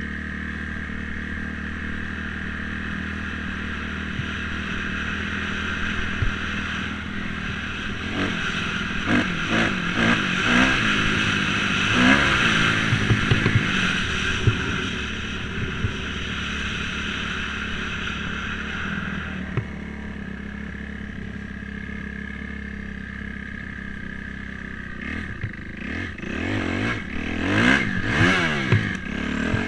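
Dirt bike engine running, revved up and down in repeated bursts about a third of the way in and again near the end, with some clatter.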